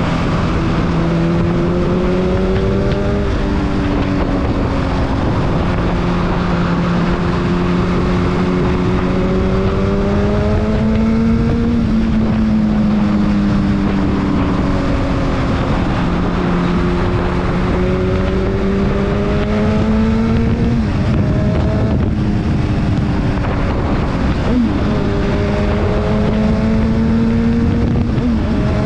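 Honda CBR1000RR sport bike's inline-four engine at highway speed. Its note climbs slowly and drops back sharply four times, over a steady rush of wind and road noise.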